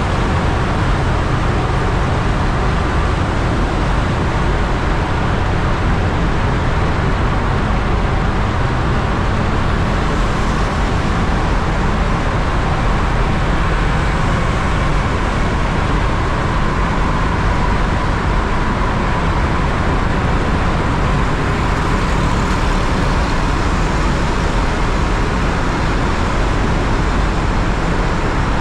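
Steady road-traffic roar inside a road tunnel, heard while riding a motorcycle through it: engines and tyres building up in the enclosed tube into a loud, even din.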